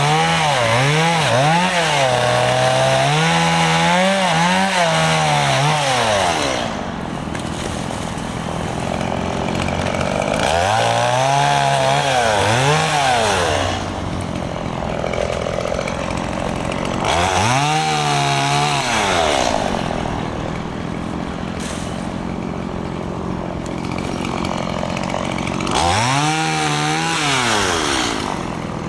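Stihl MS 170 two-stroke chainsaw revving in four bursts, its pitch climbing and falling each time, and dropping back to a lower running speed between bursts.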